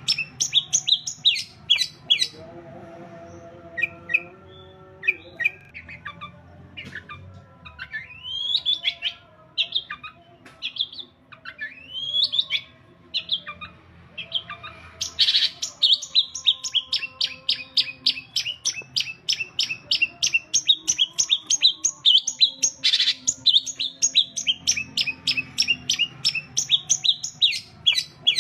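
Long-tailed shrike (cendet) singing: sweeping rising calls, then about halfway through a long, fast run of sharp repeated chirps, three or four a second.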